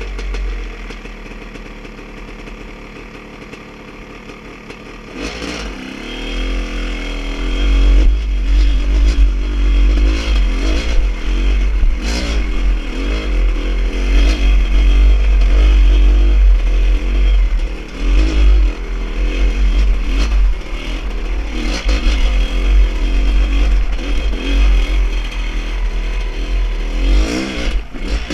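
A motor vehicle's engine running steadily at first, then revving and pulling louder about five seconds in, with rumble and rattling clatter as it drives over rough trail.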